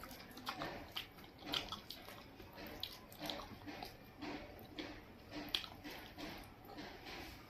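Wet chewing and lip-smacking of a person eating daal and rice, with irregular short squelching smacks several times a second.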